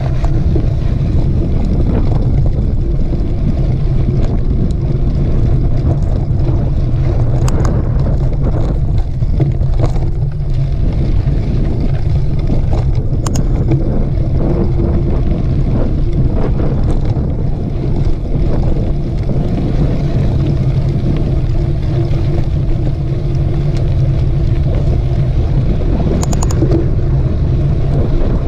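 Wind buffeting the microphone of a camera riding along on a mountain bike: a loud, steady rumble, with a few scattered clicks and rattles from the bike on the trail.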